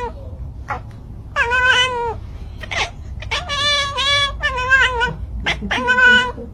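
Cat meowing repeatedly, about four drawn-out, high meows a second or so apart.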